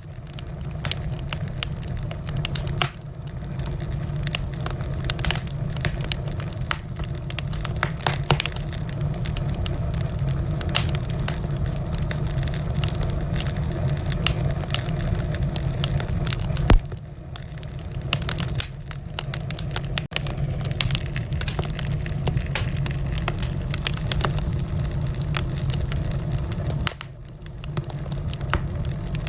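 Wood fire in a fireplace crackling, with frequent sharp pops and snaps over a steady low rumble; one louder crack comes a little past halfway.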